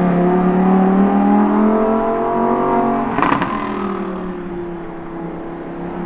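High-performance supercar engine and exhaust revving as the car drives by. The note climbs slowly, gives a short rough burst about three seconds in, then sinks steadily.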